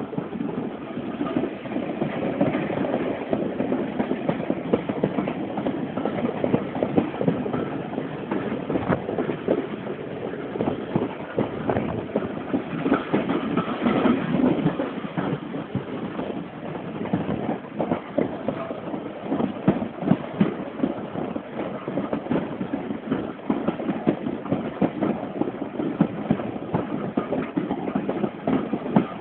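Steam train running on the rails: a continuous rumble and rattle thick with small knocks.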